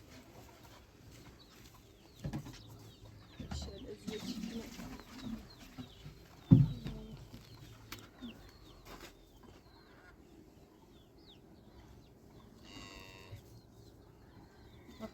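Poultry clucking, with scattered small chirps, a few dull thumps (the loudest about six and a half seconds in) and one short call near the end.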